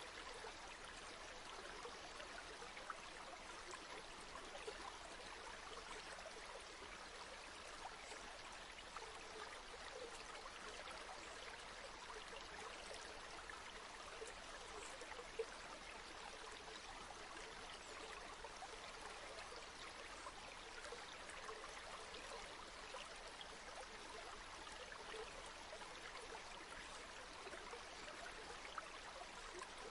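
River water flowing and babbling steadily over stones, with small splashes and trickles.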